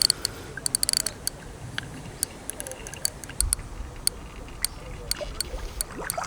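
Carp fishing reel clicking irregularly as a hooked carp is played in close to the bank: a quick run of clicks in the first second or so, then scattered single clicks, with a dull low thump about halfway through.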